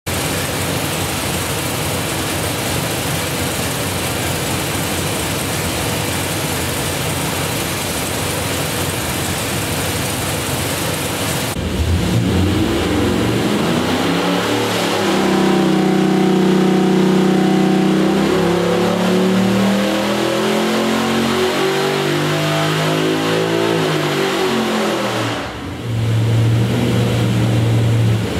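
454-cubic-inch LS-based V8 on an engine dyno, exhausting through long-tube headers, running loud with a rough, unpitched roar. After a cut about twelve seconds in, it revs up, holds high revs, winds slowly back down, and settles to a steady idle near the end.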